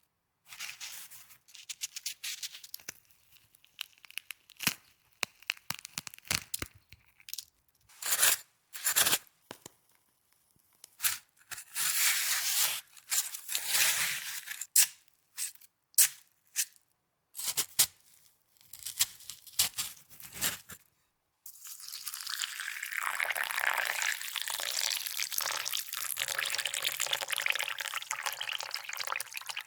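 Snow being crunched and handled close to the microphone: separate short crunches and crackles for roughly the first twenty seconds, then a steady, continuous crunching after a short pause.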